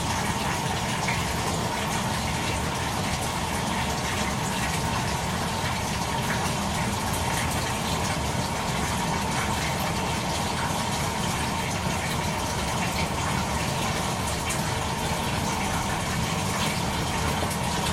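Toshiba AW-42SEE4 fully automatic washing machine with a steady rush of water running through it, under a faint constant hum.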